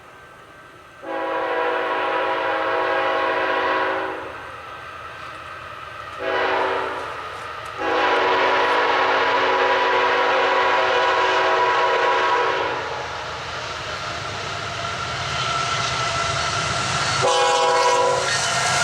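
Freight locomotive's multi-note air horn sounding the grade-crossing signal: a long blast, a short one, then a long held blast. The rumble of the approaching train grows after it, and the horn sounds one more short blast near the end.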